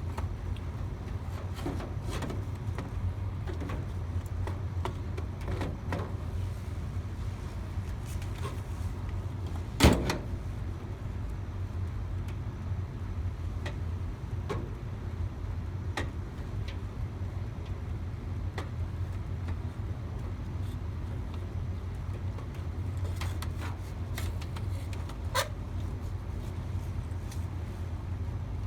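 Scattered clicks and light knocks of hands working on a furnace's parts, over a steady low hum. There is one sharp knock about ten seconds in and a smaller one a little before the end.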